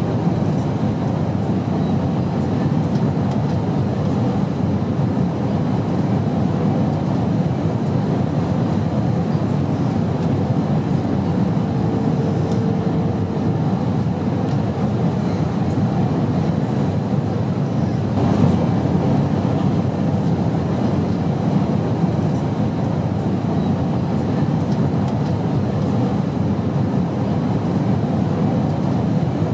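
Airplane noise: a steady low drone with no change in level, with a faint brief hum about halfway through and a faint click a few seconds later.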